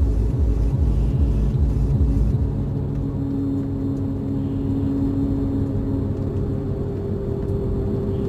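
Car engine running steadily, with a heavy low rumble for the first two seconds that then eases into a lighter, even hum.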